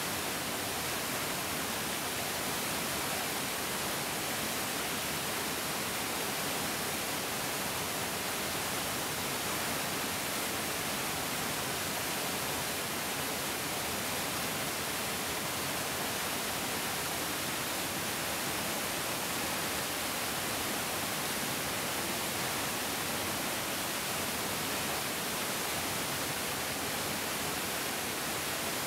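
Mountain stream rushing and splashing in a steady, unbroken hiss, strongest in the high end.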